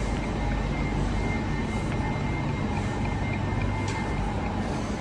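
Steady rumble and hiss of a train running, with faint steady whining tones over it.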